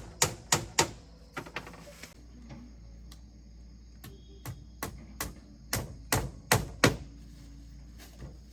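Hammer blows in quick runs, about three a second. A short run comes at the start, then a pause, then a louder run of strikes a little past the middle.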